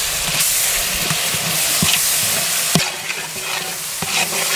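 Hand-ground ginger-garlic paste frying in hot oil with shallots, curry leaves and green chillies in a large metal pot: a steady sizzle as a ladle stirs it, with a couple of sharp taps about two and three seconds in.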